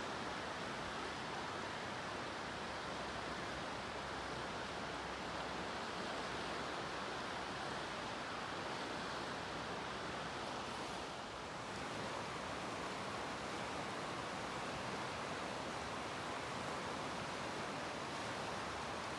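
Steady hiss of falling rain, even and unbroken, with a slight dip about eleven seconds in.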